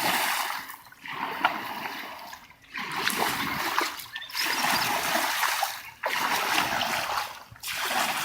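Kayak paddle strokes splashing through the water in a steady rhythm, one splash every second and a half or so, each with a brief quiet gap between strokes.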